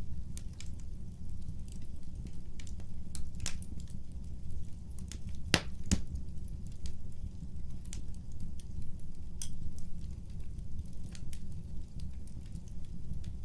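Wood fire crackling, with irregular sharp pops and snaps over a steady low rumble of burning. Two louder pops come close together about halfway through.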